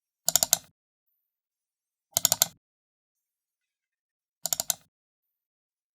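Computer mouse button double-clicked three times, about two seconds apart; each double-click is a quick run of about four sharp plastic clicks as the button is pressed and released twice.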